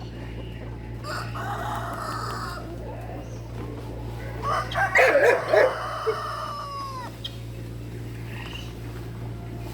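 Rooster crowing twice: a fainter crow about a second in, then a louder one in the middle that ends in a long, falling drawn-out note. A steady low hum runs underneath.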